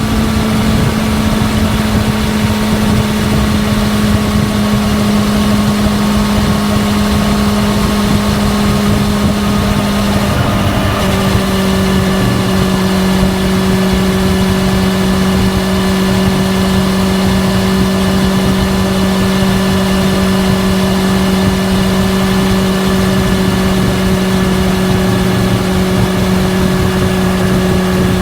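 Exhaust note of a 2000 Honda CB400SF Hyper VTEC inline-four through a Yoshimura catalyzed titanium full system, running steadily while ridden. About ten seconds in, the pitch drops a little and then holds steady again.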